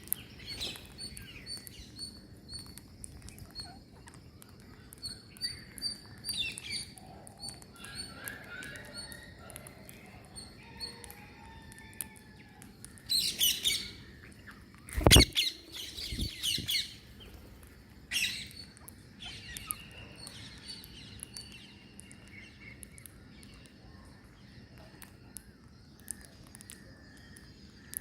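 Birds chirping and calling throughout, with bursts of harsh green-parrot squawks about halfway through. Between the squawks comes one sharp thump, the loudest sound.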